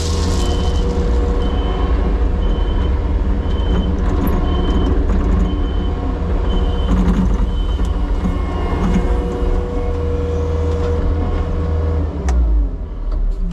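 Compact diesel construction machine running steadily while its backup alarm beeps about once a second, the beeping stopping about two thirds of the way through. Near the end the engine sound drops away.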